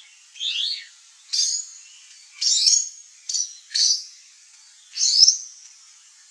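A bird's short high-pitched chirps, about six separate calls a second or so apart, each with a quick sweeping pitch.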